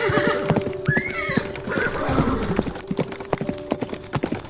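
A horse whinnies briefly about a second in, with irregular hoof clops on the ground throughout.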